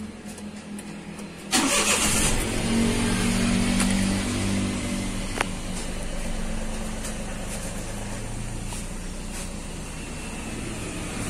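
Daihatsu Xenia 1.0-litre three-cylinder engine started about a second and a half in: it catches, runs up briefly, then settles into a steady idle. The idle is smooth after a replacement ignition coil on the misfiring third cylinder (code P0303), though the fault code is still stored.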